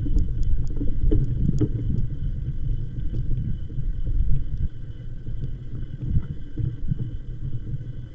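Wind rumbling on the microphone during a bicycle ride, with a faint steady high whine and a few light clicks in the first two seconds.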